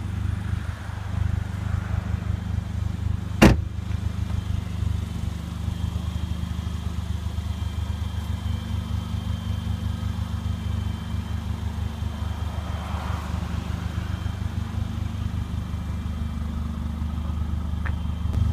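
A Mercedes CLA45 AMG's turbocharged 2.0-litre four-cylinder idling with a steady low hum. A single sharp click about three and a half seconds in.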